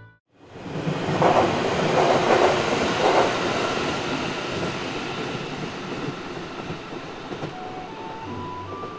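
An electric train running past on the Chuo West Line, with a few louder rattling clatters in its first seconds, then fading away as it passes. Soft stepped music notes come in near the end.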